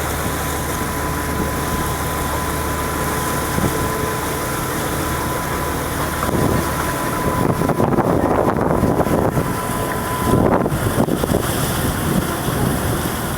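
Motorboat engine running steadily with a constant hum. About halfway through it turns louder and rougher for a few seconds, with wind buffeting the microphone.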